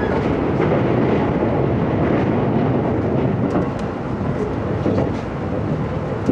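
Running noise of an E257-series limited express train heard from inside the passenger car: a steady rumble of wheels on rails.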